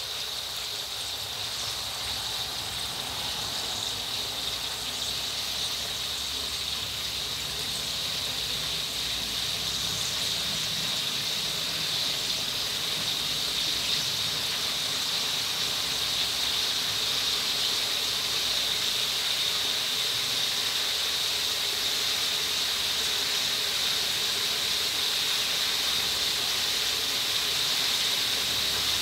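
Sun-dried beef frying in oil in a steel wok: a steady sizzle that grows gradually louder as the oil heats up around the meat.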